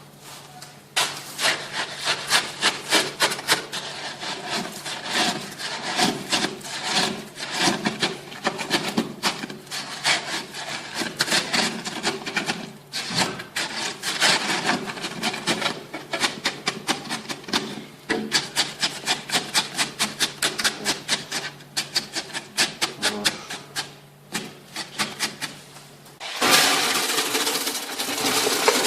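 A hand tool worked in rapid back-and-forth strokes, a rhythmic rubbing and sawing sound. Near the end a louder, steadier scraping noise takes over.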